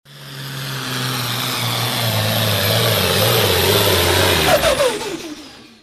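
Super Stock two-wheel-drive pulling truck engine running hard at high revs, its pitch dropping sharply about four and a half seconds in as it comes off the throttle, then fading away.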